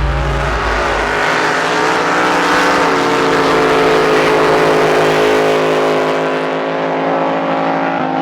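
Drag boat racing engine running loud and steady, a dense engine note holding nearly level in pitch with a hiss above it.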